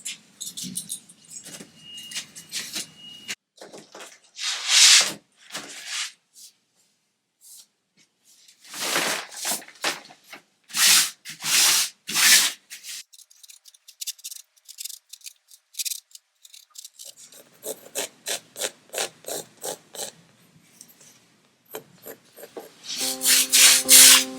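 A series of hand-made scraping strokes, each under a second, coming in irregular bursts with pauses between them.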